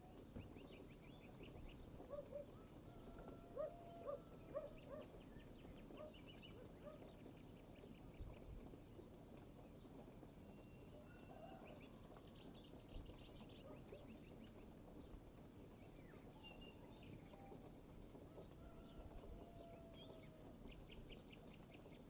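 Birds calling faintly: rapid high trills and short repeated notes come and go, a little louder a few seconds in, over a low steady background.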